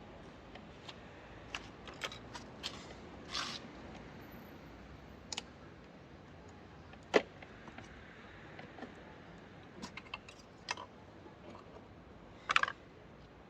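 Scattered light clicks and metallic clinks of tools and parts being handled, spaced irregularly, with a sharper click about seven seconds in and a quick cluster of clinks near the end.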